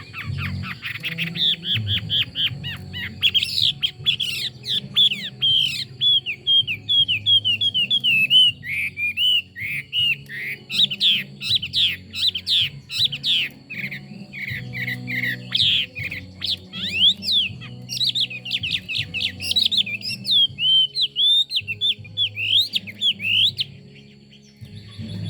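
Chinese hwamei singing a fast, varied song of loud, clear whistled phrases, rapid slurred notes running almost without a break and dying away just before the end.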